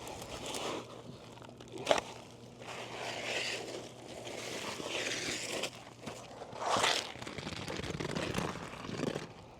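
Rustling and scraping of asphalt roofing shingles being handled and pulled apart, with a sharp knock about two seconds in.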